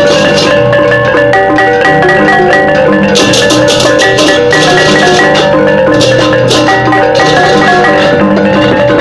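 Loud Balinese gamelan music, the kind of beleganjur processional ensemble that accompanies ogoh-ogoh parades: tuned bronze metallophones ringing in fast interlocking patterns over clashing cymbals and drums.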